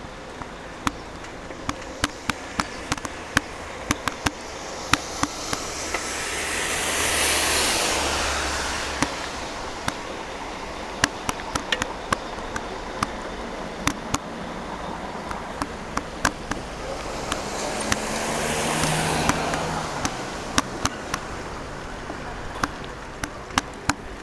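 Two vehicles pass on a wet road, each a rising and fading hiss of tyres on water, about seven and nineteen seconds in. Scattered sharp ticks run throughout, raindrops striking close to the microphone.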